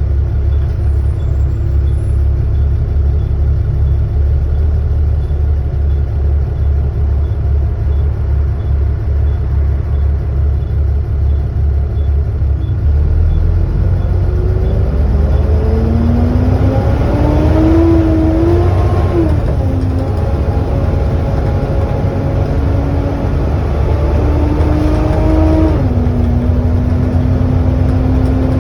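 Volvo B7TL double-decker bus engine and driveline running with a low rumble, then pulling away with a loud whine (the sound bus enthusiasts call a "hoover") that climbs in pitch and drops at two gear changes, about halfway through and again near the end.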